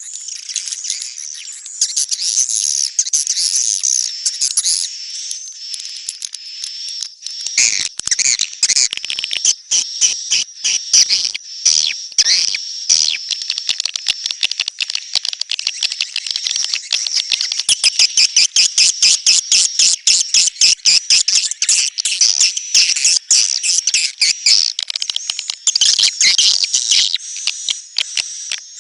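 Swiftlets twittering in a high, continuous chatter, with rapid clicking mixed in from about eight seconds in.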